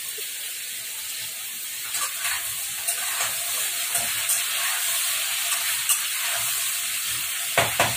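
Sliced papaya frying and sizzling in a pan on a gas stove while a spatula stirs it: a steady hiss with scraping strokes and clicks against the pan, and two sharper knocks near the end.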